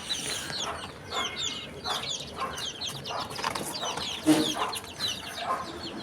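Many baby chicks peeping continuously, their short falling cheeps overlapping several times a second. A sudden knock about four seconds in.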